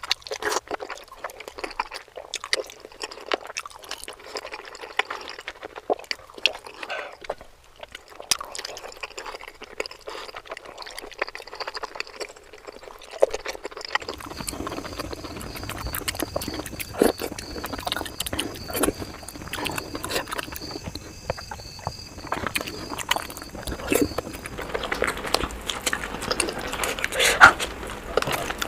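Close-miked eating sounds of dumplings being chewed: a run of wet, sticky mouth clicks, smacks and squelches.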